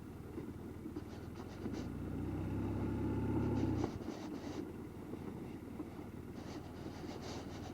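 Motorcycle engine running, getting louder for about two seconds, then shut off abruptly about four seconds in. Short bursts of scraping or crunching come before and after it.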